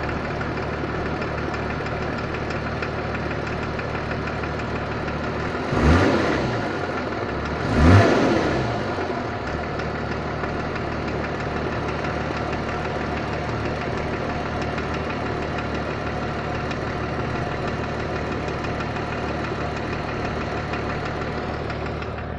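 BMW M51 inline-six turbodiesel idling with a knock of unknown cause, revved briefly twice about six and eight seconds in.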